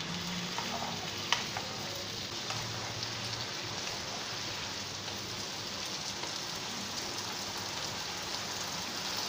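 Cubed ridge gourd and potatoes frying in hot mustard oil in a pan, a steady sizzle, with one sharp knock of the spatula about a second in.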